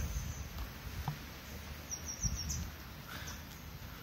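A small bird chirping a quick run of about four short, high, falling notes about two seconds in, over a steady low rumble of outdoor background noise.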